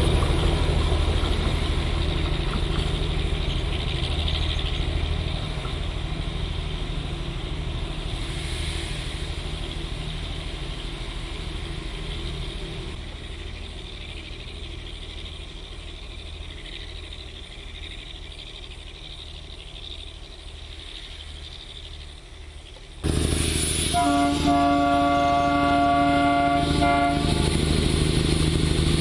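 Darjeeling Himalayan Railway narrow-gauge toy train running past and slowly fading as it moves away. After a sudden cut about 23 s in, a diesel locomotive's engine runs loudly close by and its horn sounds once for about three seconds.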